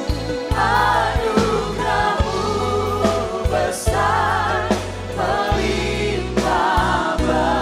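Live church worship music: singers holding notes with vibrato over a band's steady bass and regular beats, in a gospel-style praise song.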